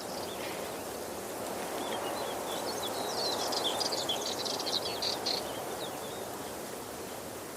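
Steady rushing of a waterfall, with a small bird chirping in quick high notes from about two and a half seconds in to about five and a half seconds.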